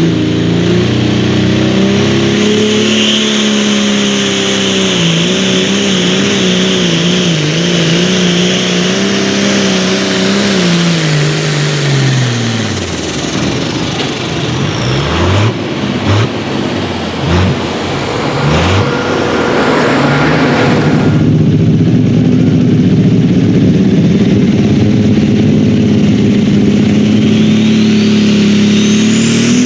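A pulling tractor's engine run hard at high revs with a wavering pitch, then dropping away about twelve seconds in. Several short throttle blips follow, and the engine settles into steady running, rising in pitch near the end.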